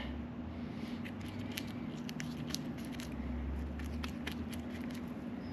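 Tapered roller wheel bearing being hand-packed with grease: soft squishing and scattered light clicks, over a steady low hum.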